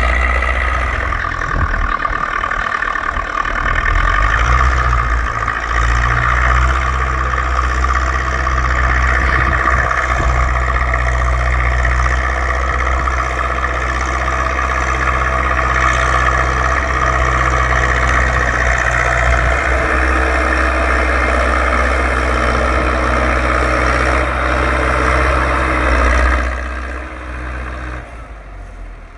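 Zetor tractor's diesel engine running steadily at working revs. The sound drops off sharply near the end.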